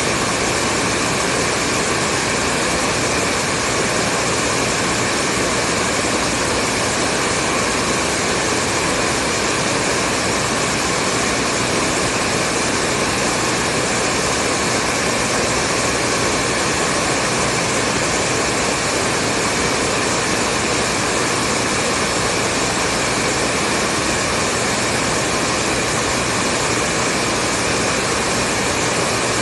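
Hair dryer running steadily: an even rush of blown air with faint motor tones, never changing in pitch or loudness.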